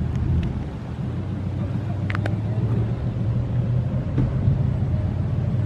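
A vehicle engine runs with a steady low hum. Two sharp clicks come a little after two seconds in.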